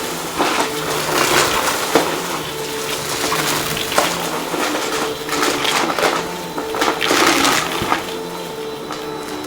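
Vacuum cleaner running with a steady motor hum while it sucks up crunchy debris, which crackles and clicks sharply as it is picked up and rattles through the machine.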